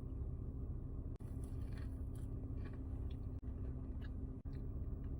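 Faint chewing of a soft frosted cake cookie, with scattered small mouth clicks over a steady low hum.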